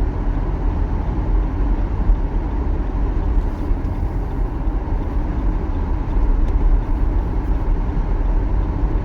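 Car driving on a snow-covered road, heard from inside: a steady low rumble of engine and tyre noise.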